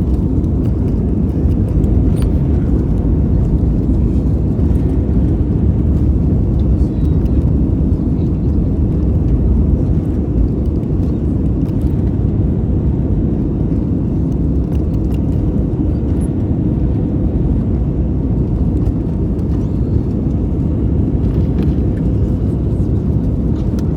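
Steady low rumble of engine and airflow noise inside the cabin of an Airbus A320neo jet airliner.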